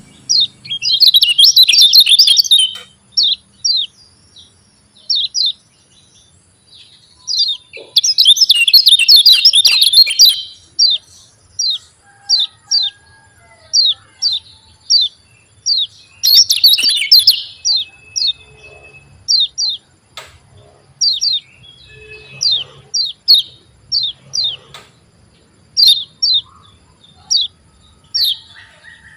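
Kecial kuning (white-eye) singing: short, sharp, high chirps repeated every half second to a second, broken three times by a dense burst of rapid chattering song.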